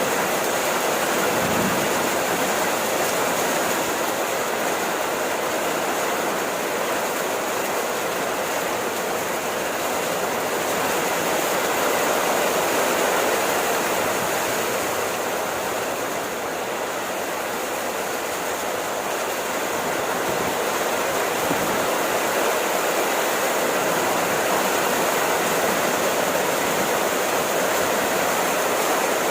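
Steady rainfall: an even, unbroken hiss of rain, holding at the same level throughout.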